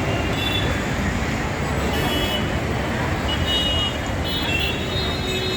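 Busy city road traffic: a steady din of engines and tyres, with several short vehicle horn toots about half a second in, around two seconds, and again near the end.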